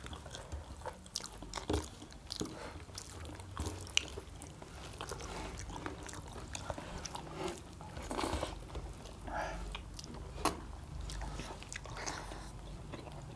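Close-miked chewing and biting of roasted quail meat with rice, with many irregular small clicks and crunches from the mouth and the small bones.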